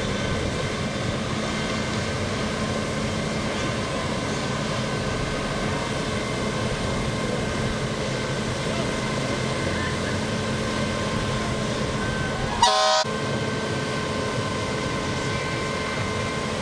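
Fire apparatus running with a steady mechanical drone and hiss, and one short horn toot about thirteen seconds in.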